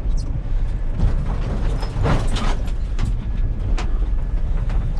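Scrap items being handled and loaded into a vehicle: scattered clanks and creaks, with a rushing scrape about two seconds in, over a steady low rumble.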